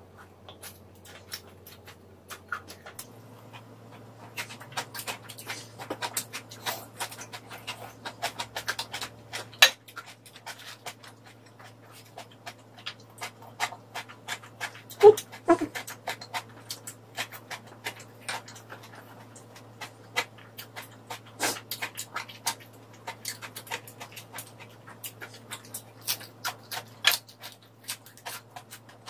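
Close-up chewing and mouth sounds of someone eating braised pig's trotters, Korean blood sausage and lettuce wraps: irregular wet smacks and clicks throughout.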